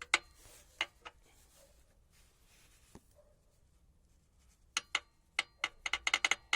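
Sharp clicks and taps from hands at work on the engine: a few scattered ones, then a quick run of about ten near the end.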